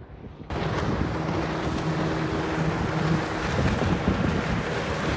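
Johnson 25 outboard motor running with the boat underway, under heavy wind noise on the microphone and water rushing past the hull. The sound starts abruptly about half a second in.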